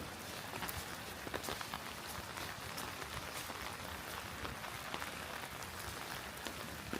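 Steady rain falling, an even hiss with scattered sharper drip hits close by.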